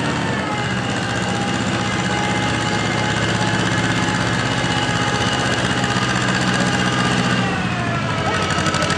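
1953 John Deere 40 tractor's two-cylinder engine running steadily with a chugging knock, its pitch dipping slightly about seven and a half seconds in.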